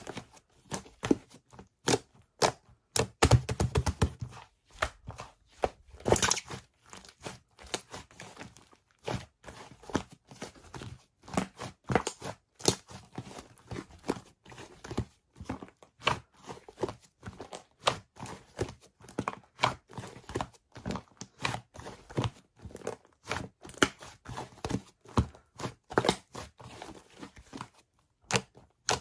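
Slime being played with by hand: a steady run of short clicks, crackles and pops as it is pressed, stretched and folded, several a second, with a louder cluster about three to four seconds in.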